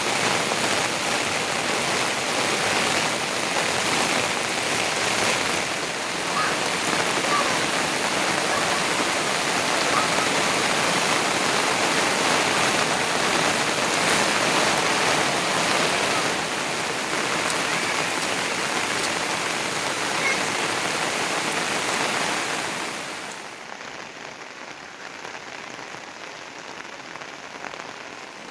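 Heavy rain falling in a steady, dense hiss, which drops suddenly to a softer hiss about twenty-three seconds in.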